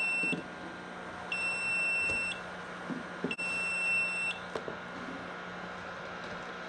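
Egg incubator's alarm beeping: long, high, steady beeps about a second each, roughly every two seconds, three in all before it stops a little past the middle. There is a sharp click between the last two beeps.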